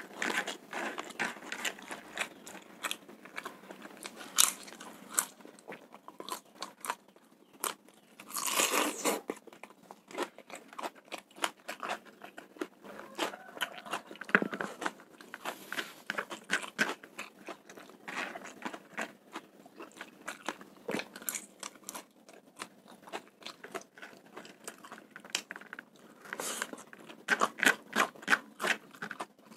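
Close-up mouth sounds of a person chewing and crunching spicy fried rice with raw bird's-eye chillies, a steady run of quick, crackly wet clicks. There is one louder noisy burst about nine seconds in, and the clicks get busier again near the end.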